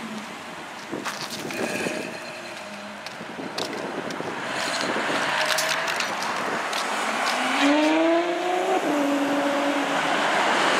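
Ferrari F12's V12 engine and exhaust running loud as the car drives off. About three-quarters of the way through it revs, the pitch climbing for about a second, then holds steady.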